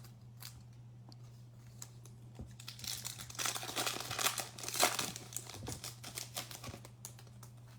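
Foil trading-card pack wrapper being crinkled and torn open, a dense crackly rustle that builds about two and a half seconds in, peaks mid-way and dies down near the end, over a steady low hum.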